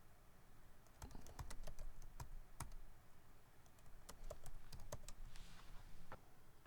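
Typing on a computer keyboard, quick runs of key clicks in two spells, the second starting about four seconds in.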